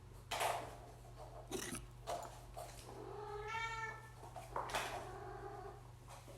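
A cat gives one drawn-out meow a little past the middle. Around it come short bursts of rattling and scuffling, the loudest about half a second in and again near three quarters of the way through, from kittens batting filled plastic Easter eggs.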